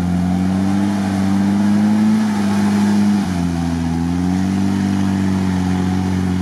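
UAZ 4x4's engine running hard under load while its tyres spin in deep mud. The engine pitch climbs slowly, drops suddenly about three seconds in, then rises again.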